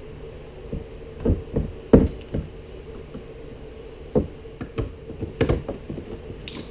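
Irregular knocks and taps, about a dozen spread over several seconds and the loudest about two seconds in, from hands-on work on the kayak while its rod-holder hole is being made. A steady low hum runs underneath.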